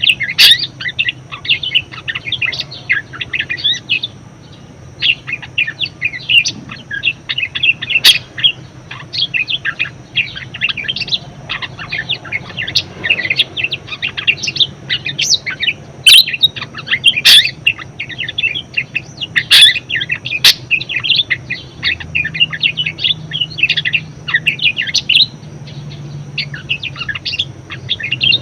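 Budgerigar warbling: a continuous, fast chattering twitter with brief pauses and a few sharp, loud chirps.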